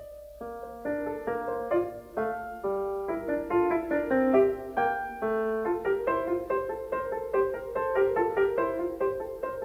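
Background music: solo piano playing a flowing melody of quick, separate notes.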